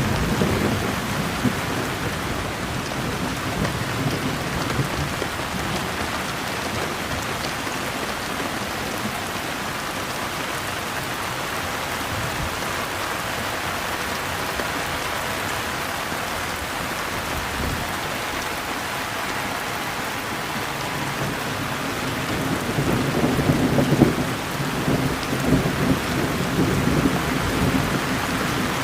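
Steady heavy rain falling, with low thunder rumbling, fading away near the start and building again for several seconds near the end.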